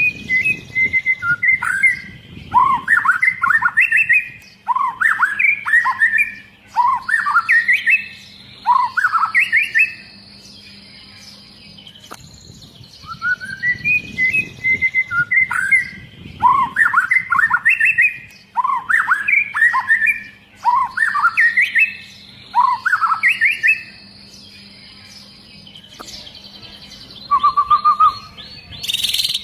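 White-rumped shama (murai batu) singing two long bouts of rapid, varied whistled phrases, each about ten seconds long, with a pause of a few seconds between them.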